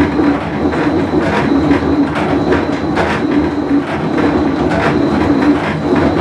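Whirlpool Cabrio top-load washing machine running with a bad bearing: a loud, continuous grinding rumble with irregular rattling clicks.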